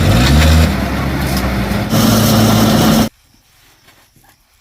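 A small engine starts up and runs. Its pitch drops and settles into a steady run, then the sound cuts off suddenly about three seconds in.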